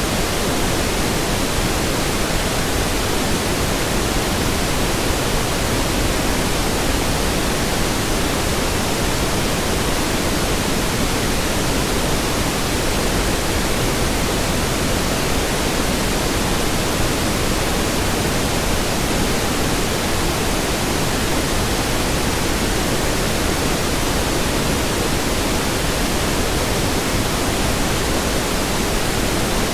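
Steady pink noise: an even, unbroken hiss that is fuller in the lows than white noise.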